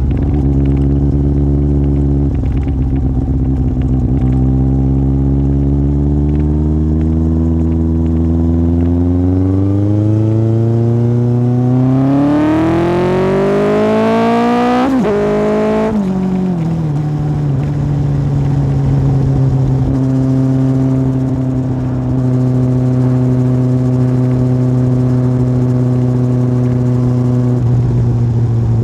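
Yamaha Fazer 1000's inline-four engine through an aftermarket MIVV exhaust, heard while riding. The engine note climbs steadily under acceleration for about thirteen seconds, drops sharply about halfway through, then holds a steady pitch at cruise.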